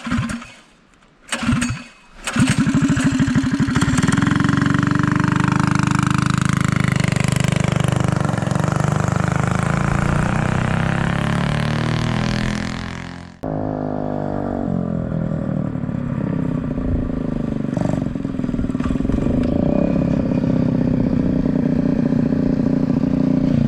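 A mini bike's small engine gives a couple of short bursts, then catches and runs loudly and steadily. About thirteen seconds in the sound cuts abruptly to another stretch of engine running.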